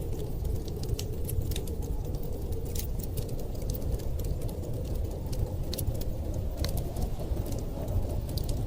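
Wood fire crackling, with scattered sharp pops at irregular times over a steady low rumble.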